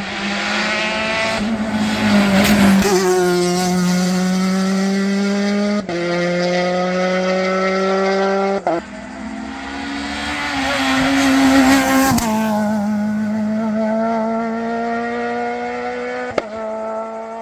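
A modern rally car's engine under hard acceleration. Its pitch climbs and drops sharply at each of several gear changes, getting louder as the car comes close.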